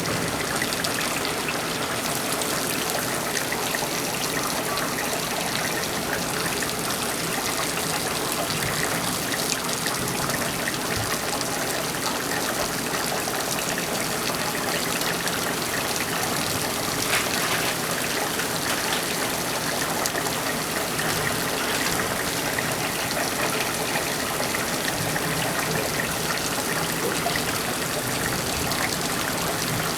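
Torrential rain pouring down in a steady, heavy hiss, with water gushing and splashing from overflowing gutters.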